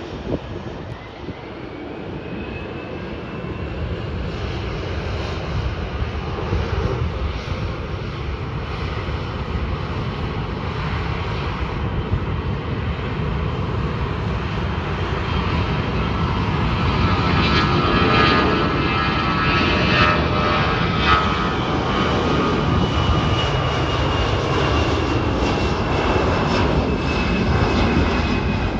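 Airbus A319 twin jet engines at takeoff power, growing steadily louder over the takeoff run, with a faint whine gliding in pitch above the engine noise.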